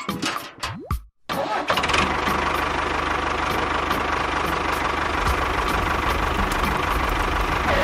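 Background music for about the first second, then a small engine comes in suddenly and runs steadily, with a low rumble and a steady whine.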